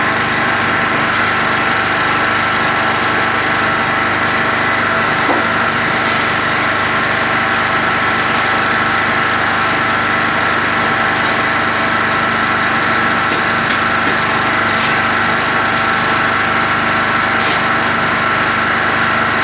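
Skif BSM 200 concrete mixer running steadily, its 550 W electric motor turning the drum with a batch of concrete in it. It keeps an even machine hum with an occasional faint knock.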